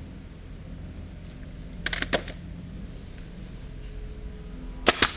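A nail gun being handled and triggered: a quick cluster of sharp clicks and clacks about two seconds in and another pair near the end, over a low steady hum.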